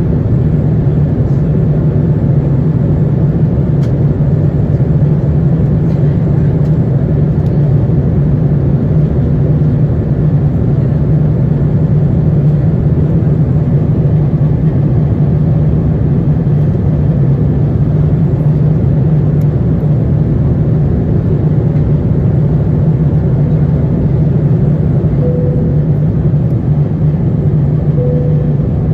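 Steady, loud cabin drone of an Airbus A350-900, the low hum of its Rolls-Royce Trent XWB engines mixed with airflow noise, heard from inside the passenger cabin.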